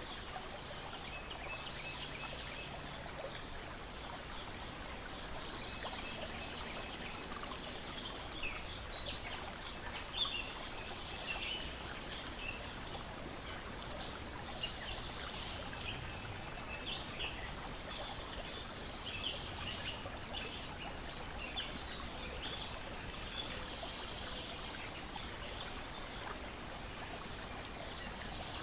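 Lake water lapping against a shore and deck in a steady wash, with songbirds chirping and singing in short calls that grow busier about eight seconds in.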